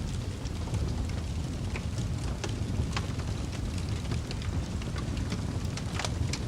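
Fire burning: a steady low rumble of flames with scattered sharp crackles and pops, a few louder ones standing out.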